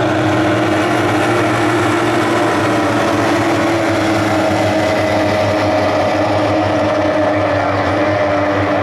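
Several D-Stock hydroplane outboard racing engines running together at full throttle in a race, their overlapping engine notes held nearly steady.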